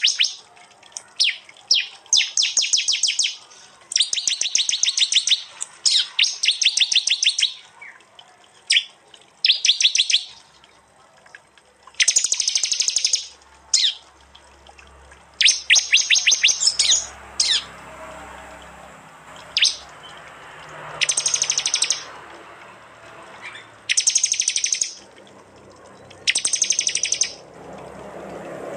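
Prenjak (prinia) song: loud, fast rattling trills of sharp high notes in phrases about a second long, repeated every couple of seconds. A low rumble builds near the end.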